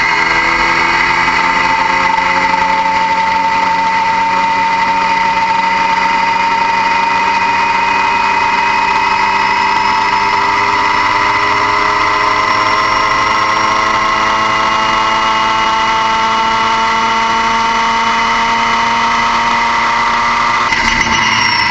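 Car engine running steadily, its pitch climbing slowly over about twenty seconds with a strong whine-like tone, then shifting just before the end.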